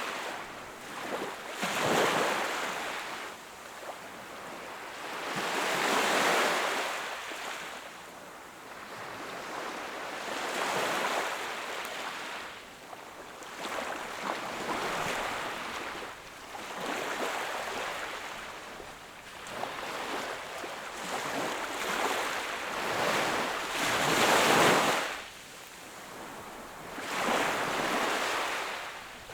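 Sea waves washing onto the shore, each wash swelling and fading every few seconds, with the loudest wave about three-quarters of the way through.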